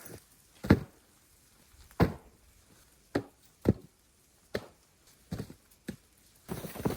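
Footsteps crunching in snow: about seven slow, irregularly spaced steps, the two loudest in the first two seconds.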